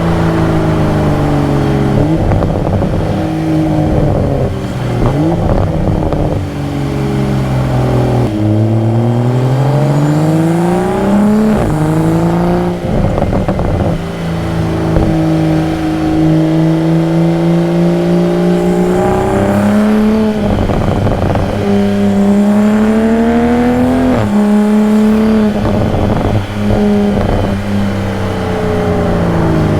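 2022 Toyota Supra's engine, exhaust and intake accelerating through the gears: the engine note climbs steadily in pitch, then falls sharply at each shift, several times, with brief crackly breaks around the shifts.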